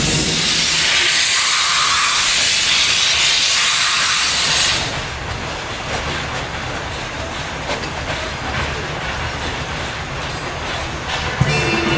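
Soviet L-class 2-10-0 steam locomotive letting off steam: a loud hiss for about five seconds that cuts off suddenly, then the quieter rumble of the engine standing by. Its steam whistle begins to sound just at the end.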